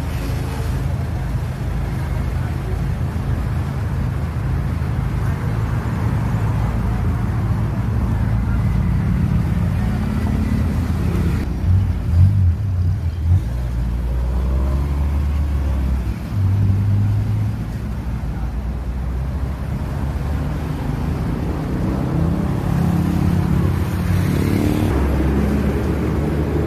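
A car's engine and road rumble running steadily, with a few louder low swells about halfway through.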